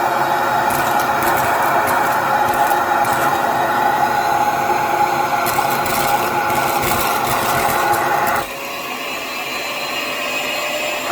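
Hyper Tough vacuum cleaner running with a steady motor whine, with scattered light rattling clicks. About eight and a half seconds in, the note abruptly changes and gets quieter, as if the airflow changed.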